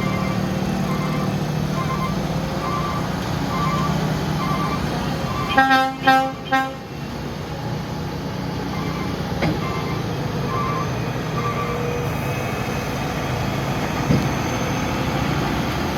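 Heavy truck running steadily, with a vehicle horn giving three short toots about six seconds in. A faint beep repeats about once a second through much of it.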